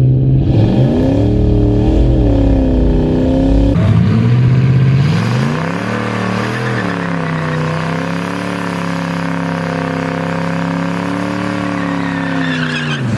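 Turbocharged 4.6 L two-valve V8 in a Ford Thunderbird drag car making a full-throttle launch and pass. The revs climb and fall as the tires spin, break at gear changes about four and six and a half seconds in, then hold steady until the engine lets off near the end.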